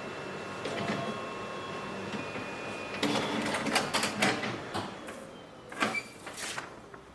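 Ricoh MP C-series copier running: a steady machine whir with a run of clicks and clatter in the middle that dies down near the end.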